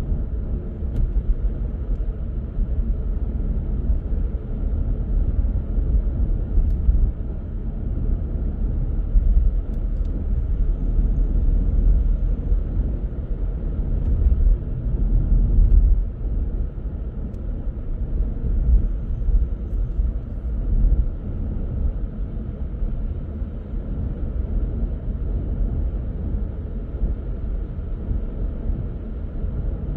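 A car driving along at a steady pace: continuous low rumble of road and engine noise, with small swells in loudness.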